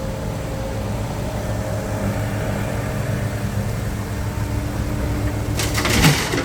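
Dump truck diesel engine running steadily, with a short hiss near the end.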